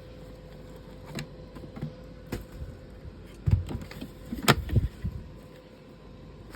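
Plastic clicks, knocks and thuds as a Hoover React cordless vacuum's dust bin is handled and opened for emptying, with the sharpest click about four and a half seconds in.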